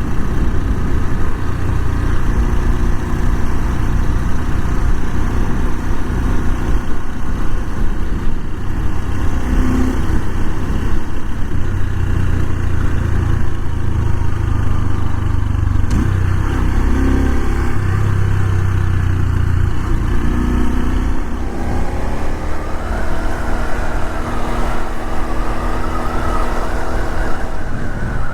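Honda Super Cub 125's air-cooled 125 cc single-cylinder four-stroke engine running steadily while the bike is ridden. A siren starts wailing up and down near the end.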